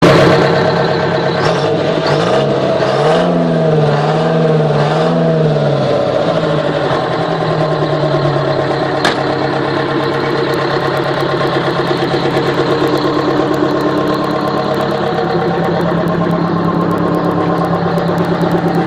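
Detroit Diesel 4-71 two-stroke diesel engine of a GMC truck, revved up and down a few times in the first seconds, then settling to a steady idle.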